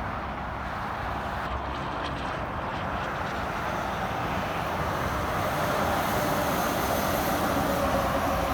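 Highway traffic noise, a steady rush of tyres and engines that grows louder over the last few seconds as a vehicle approaches.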